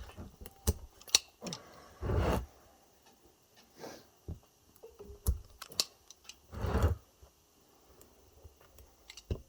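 Pliers working on an e-bike lithium-ion battery pack: irregular sharp metallic clicks and clinks as nickel strips are pried off the cells, with two longer rasping sounds about two and seven seconds in.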